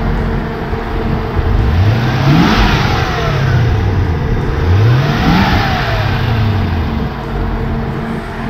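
1995 Chevrolet Corvette's LT1 V8 idling and revved twice, each blip rising in pitch and falling back to idle, about three seconds apart.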